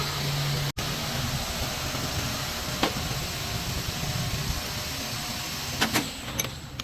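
A machine running with a steady hiss and a low hum, with a few light clicks.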